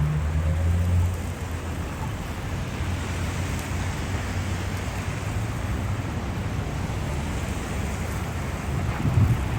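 Steady outdoor city ambience of wind noise and road traffic in a snowstorm, with a louder low rumble in the first second and again near the end.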